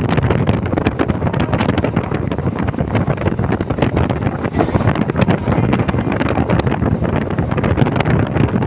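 Moving passenger train heard from on board: a steady rumble and rattle of the wheels and carriage, with wind buffeting the microphone.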